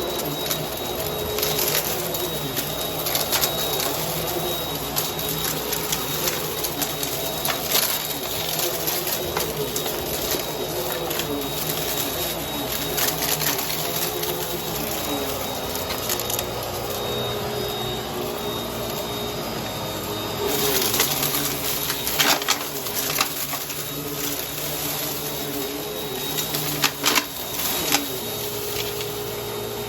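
Vacuum cleaner running, its brushroll picking up crunchy debris from the floor, with scattered crackling clicks over a steady motor hum.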